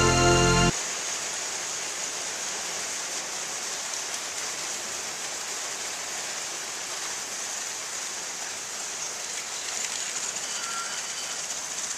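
A music cue ends about a second in, then a steady hissing noise that grows slightly louder near the end.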